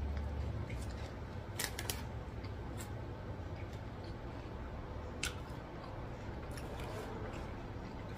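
Close-up chewing of a cheese-covered waffle fry, with a few scattered crisp clicks and crunches in the mouth.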